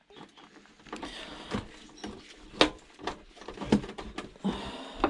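Tools and metal parts being handled while a DVD surround player is taken apart: a run of clicks, rattles and scrapes, with sharper knocks about two and a half and three and a half seconds in.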